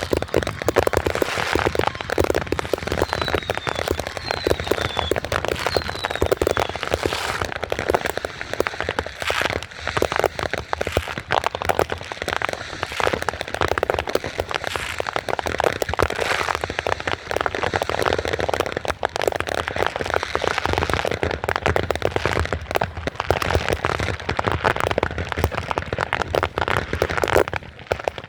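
Fireworks crackling densely and without a break, a thick run of rapid pops and crackles. Three short falling whistles sound a few seconds in.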